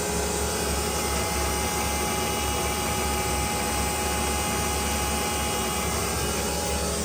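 A steady machine noise: an even rushing hiss with constant whining tones and a low hum, unchanging throughout.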